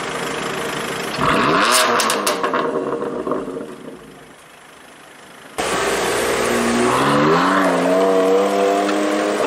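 BMW M4 GTS's twin-turbo straight-six idling, then blipped about a second in, the rev falling away with a few sharp exhaust pops. After a break, the car pulls away accelerating, its engine note rising and then levelling off.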